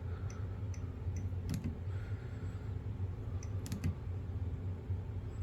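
Nest thermostat clicking as its ring is turned and pressed through the setup menus: a few light ticks, then sharper clicks about a second and a half in and again near four seconds, over a steady low hum.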